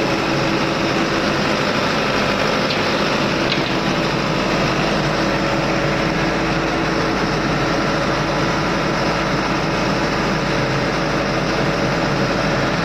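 Ship's engine-room machinery running: a loud, unchanging drone with several steady hums.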